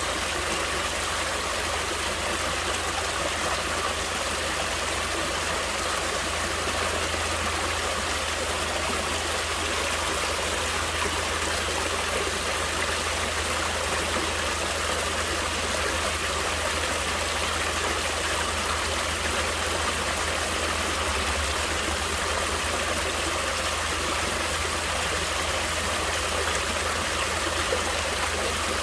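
Stream water flowing steadily, an even, unchanging rush.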